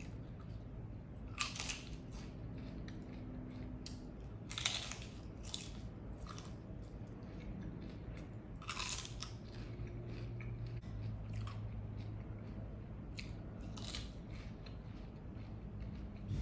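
Pieces of a crisp fried tortilla bowl being bitten and chewed: several sharp crunches a few seconds apart, with quieter chewing between them.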